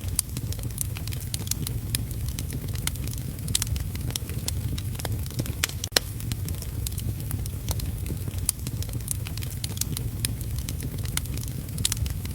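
Wood fire crackling in a fireplace, with frequent sharp pops (the loudest about six seconds in) over a steady low rumble and the hiss of heavy rain.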